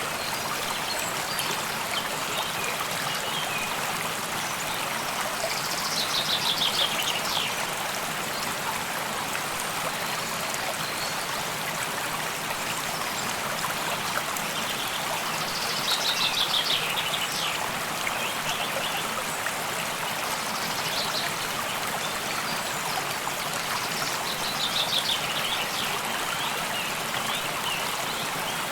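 Steady rush and trickle of a flowing stream. Over it, a high, rapid, falling trill repeats three times, about nine seconds apart, typical of a small songbird.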